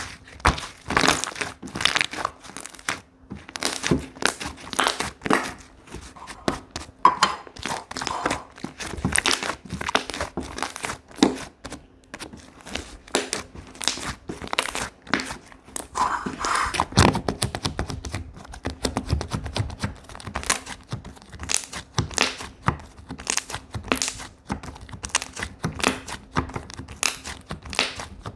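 Slime being squeezed and stretched by hand, giving a dense, irregular run of sharp crackling, popping clicks, several a second.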